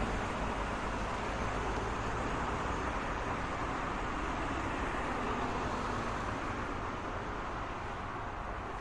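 Steady road traffic noise: a continuous wash of car tyres and engines passing, easing off slightly near the end.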